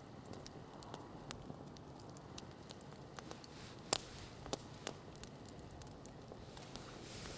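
Wood campfire crackling with scattered sharp pops, the loudest about four seconds in.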